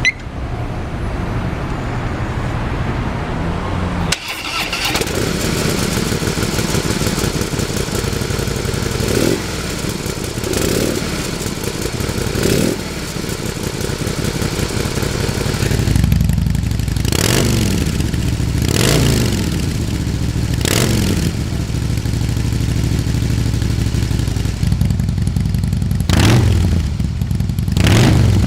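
Harley-Davidson CVO Pro Street Breakout's Twin Cam 110 V-twin running through a Jekill & Hyde exhaust: idling steadily with a few short throttle blips, then revved up and let fall back several times in the second half.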